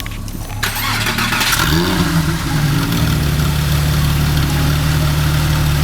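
Porsche 997 Carrera 4S flat-six starting up through a newly fitted IPE Innotech exhaust. It cranks and catches about half a second in, and the revs flare up and fall back around two seconds in. It then settles into a steady idle.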